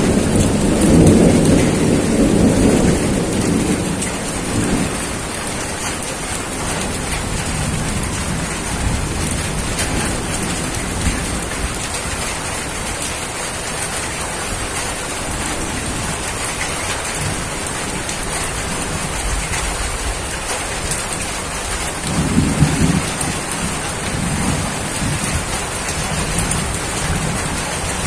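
Steady rain falling, with low rolling thunder rumbling during the first few seconds and again about 22 seconds in.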